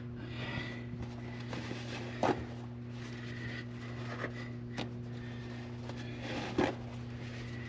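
A steady low hum with a few short, light knocks and rustles of parts being handled, about three over several seconds.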